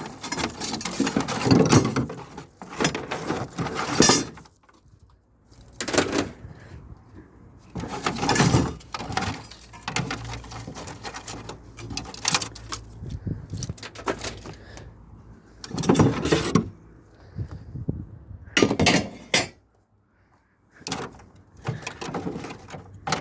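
Parts of a video cassette player being handled and pulled apart: irregular clatters, clicks and rattles of metal and plastic pieces, with a short pause a little before the end.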